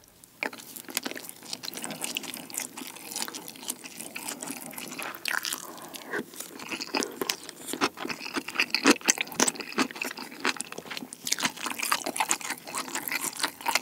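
Close-miked chewing of rice and sauce-coated kimchi pizza tangsuyuk (battered fried pork in sweet-and-sour sauce with kimchi and cheese). Wet mouth clicks and smacks mix with soft crunches, many in quick succession.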